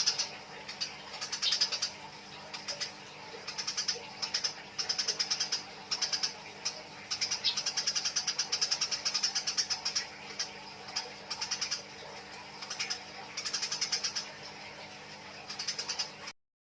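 Eurasian tree sparrows chattering in rapid bursts of harsh chirps, the excited calls of sparrows fighting. The bursts come about once a second, and the sound cuts off suddenly near the end.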